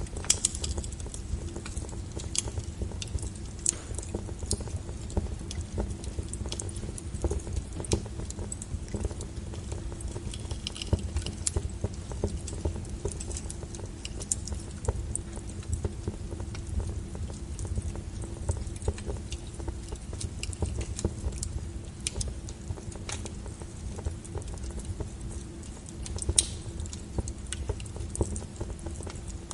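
Wood fire burning: irregular sharp crackles and pops of the burning logs over a steady low rumble of the flames.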